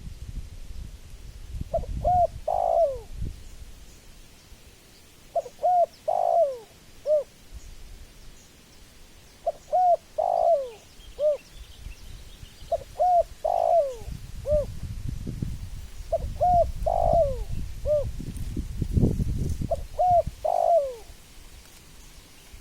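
Spotted dove cooing: six repeated phrases, one every three to four seconds, each two short notes, a longer coo and a falling final note.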